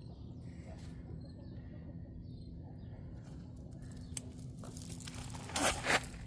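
Plastic bird netting rustling as it is handled and cut away from a snake, with two short, louder rustles near the end.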